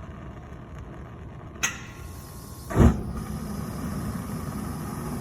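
Gas burners of a Groen TDH-40 kettle lighting: a sharp click about one and a half seconds in, then a loud whump as the burners ignite just before three seconds, settling into a steady burner rumble. An audible ignition like this the repairer calls a good sign; much more of a bang would mean late ignition.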